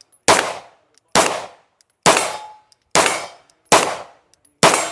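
Six gunshots fired one at a time at a steady pace, about one a second, each with a ringing tail.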